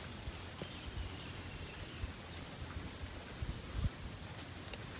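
Outdoor natural ambience with faint, steady, high-pitched calls of small animals, and one short, higher chirp about four seconds in. Soft low knocks sound now and then.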